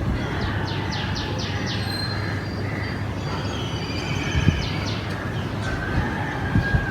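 Small birds chirping: quick series of short, falling high chirps, about five in a row near the start and more later, with some thin whistled notes. Under them runs a steady low rumble with a few dull thumps.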